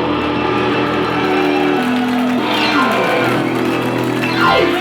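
Live blues guitar playing held notes, then two downward slides in pitch, the second running down to a low note near the end.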